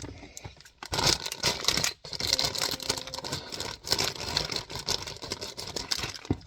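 Plastic LEGO parts bags rustling and crinkling with loose LEGO bricks clicking and rattling, in a dense run of small clicks that pauses briefly about two seconds in.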